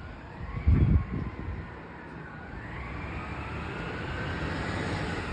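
Autocar garbage truck approaching, its engine and drivetrain whine rising in pitch and growing louder as it pulls up. A short low thump about a second in.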